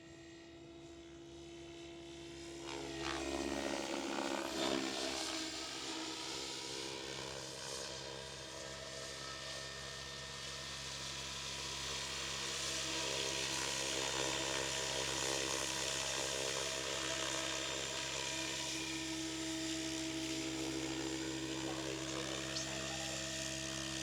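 SAB Goblin Kraken 700 electric RC helicopter flying, its motor and rotor blades making a steady whine. The pitch dips and rises again about three to five seconds in, and the sound is louder from then on.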